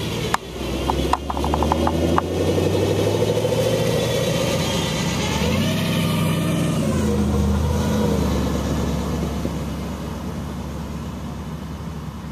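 A yellow hot rod's engine revs as the car drives past close by, with a rising engine note and a loud exhaust rumble, then fades as it moves away. A string of sharp pops sounds in the first two seconds.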